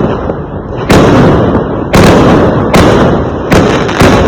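Fireworks exploding: a string of loud bangs, about five in four seconds, at uneven spacing, each trailing off before the next.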